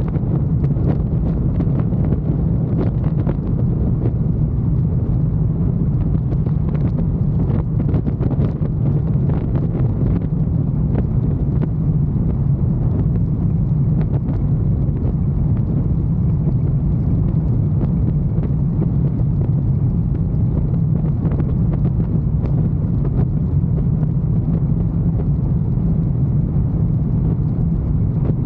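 Motorcycle engine running steadily at an even speed while riding, with wind and road noise on the microphone.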